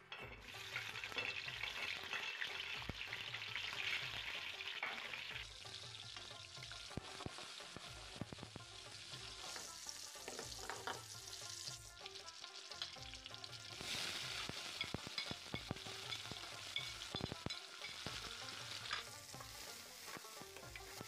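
Chopped garlic and cumin seeds sizzling in hot oil in an iron karahi, stirred with a spatula. The sizzle starts just after the garlic goes in and jumps up and down in level a few times. Chopped onions are added to fry near the end.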